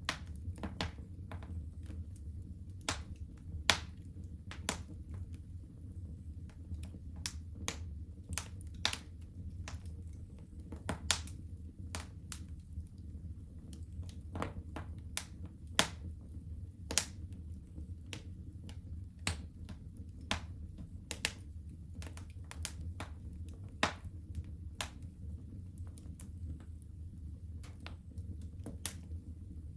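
Wood fire burning in a home fireplace, crackling and popping in sharp, irregular snaps over a steady low rumble of the flames.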